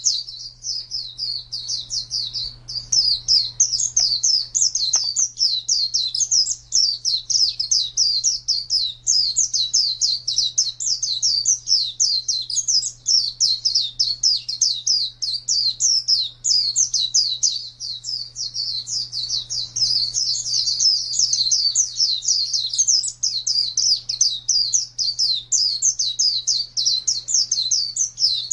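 Pleci (white-eye) singing nonstop: a fast, unbroken run of short, high chirping notes, several a second, with no pauses. A faint steady low hum lies underneath.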